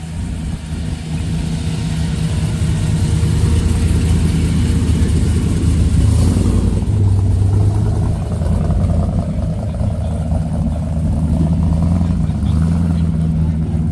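A car engine running at low speed with a deep, steady rumble as the car rolls slowly by close, loudest about midway.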